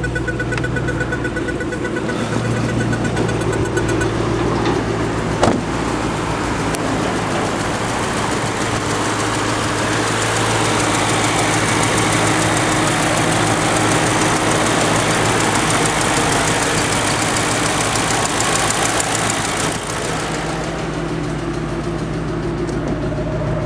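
2005 Ford Mustang GT's 4.6-litre V8 idling steadily, getting a little louder through the middle stretch. A single sharp click comes about five seconds in.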